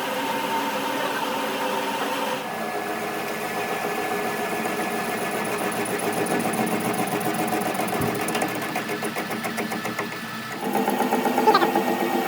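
A workshop machine's motor running steadily, its tone shifting twice, with a fast fine ticking for a couple of seconds near the end.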